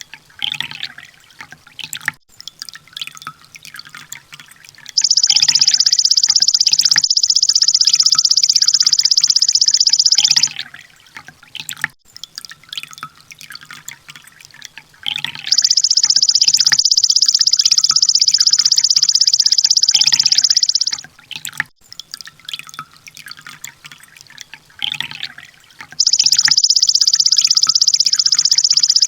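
Sunbird song: long, very rapid, high-pitched trills, each about five seconds, three of them roughly ten seconds apart, with softer scattered chirps between.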